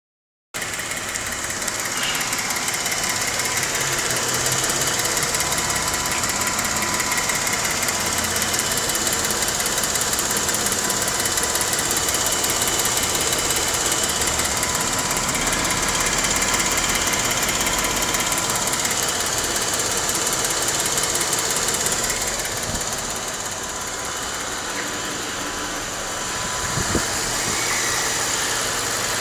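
2012 Jeep Wrangler Unlimited's 3.6 L Pentastar V6 idling steadily with a fast, even engine tick running through it. A single short knock sounds near the end.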